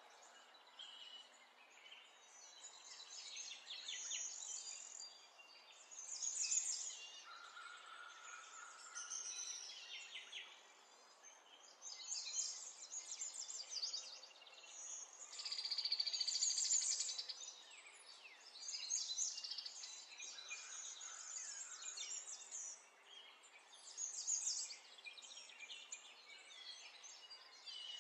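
Birds chirping and singing, a string of short high-pitched calls throughout, with a longer rapid trill about halfway through.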